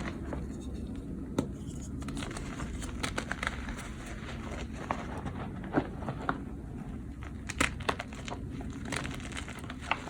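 Dyed gym chalk being crushed: dry crumbling with scattered sharp cracks and crunches, a few louder snaps about a third of the way in and past the middle, over a steady low hum.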